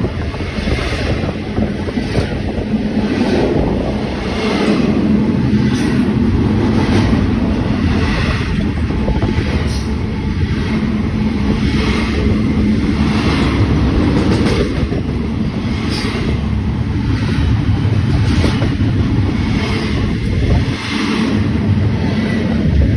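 Train passing close by: a loud, steady rumble of wheels on rail with faint clicks about once a second, and wind on the microphone.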